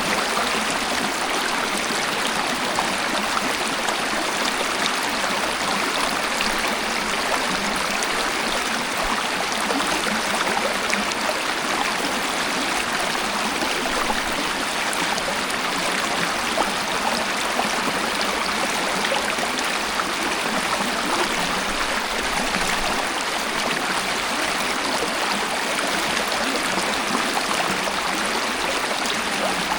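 Waterfall water falling and splashing in a steady, even rush, with a fine splashing texture and little deep rumble.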